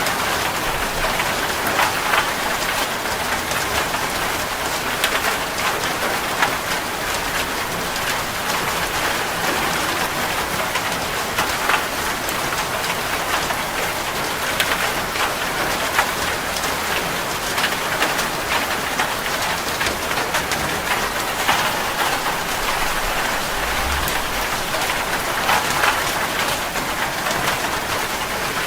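Heavy rain falling steadily on a metal roof, a dense hiss of rain with many sharp individual drop strikes ticking through it.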